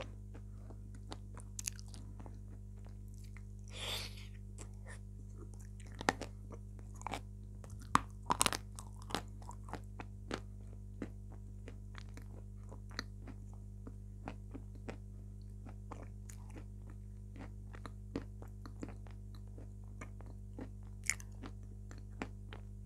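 Close-miked eating: wet mouth clicks and chewing of a chocolate-covered dessert, irregular throughout. There is a longer smacking sound about four seconds in and a louder burst of clicks around eight seconds.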